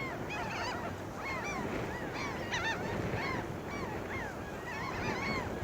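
A flock of birds calling continuously, many short arching calls overlapping one another, over a background of wind.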